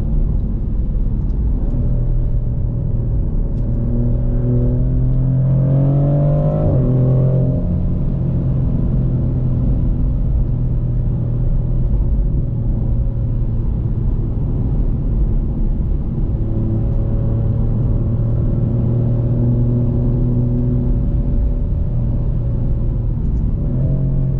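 Maserati GranTurismo Modena's twin-turbo 3.0 V6 (Nettuno) pulling on the road over a heavy low rumble. Its note climbs a few seconds in and drops sharply at an upshift at about seven seconds, then holds steady at cruise.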